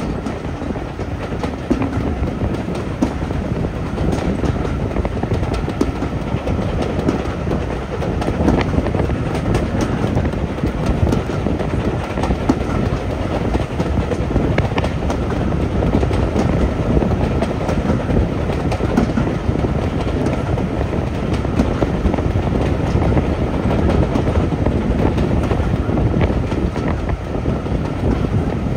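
Steam-hauled heritage train running steadily along the line, its wheels clicking over the rail joints.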